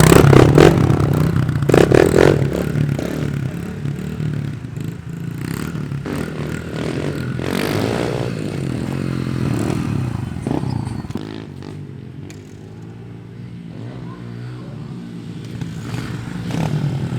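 Pit bike engine running and revving, its pitch rising and falling as the throttle is worked. It is loudest over the first couple of seconds, with another rev about eight seconds in. It fades about twelve seconds in and comes back louder near the end.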